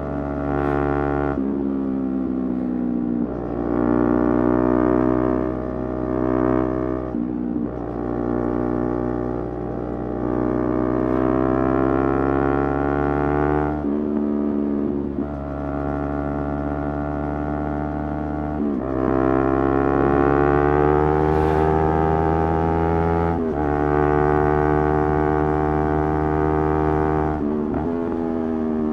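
Motorcycle engine, likely the rider's Yamaha YZF-R3 parallel twin, riding under throttle. In each pull the pitch climbs slowly, then breaks briefly and drops. This happens about six times.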